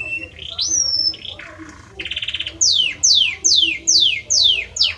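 Male Belgian canary singing: a rising whistle, a short fast trill, then a run of five quick falling sweeps, about two a second.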